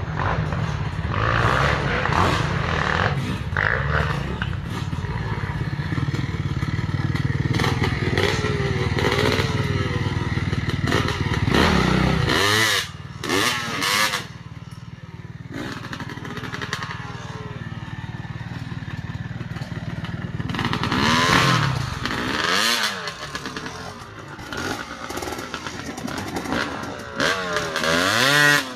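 Gas Gas EC200 two-stroke enduro motorcycle engine running under load, revving up and down again and again. It holds a steady drone for about the first twelve seconds, then drops back, with several sharp rev sweeps in the middle and near the end.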